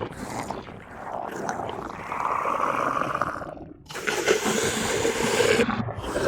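Designed monster-alien creature growls, a low, slow growl broken into long breaths, with short breaks about four and six seconds in.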